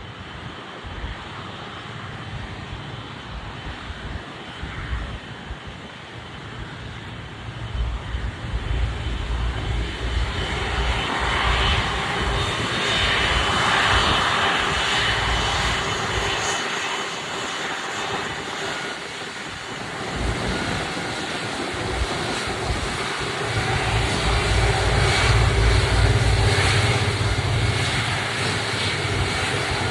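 An Airbus A330's twin jet engines at taxi power as the airliner taxis past: a steady whine over a low rumble. It grows louder about a third of the way in, eases a little past the middle, then swells again near the end.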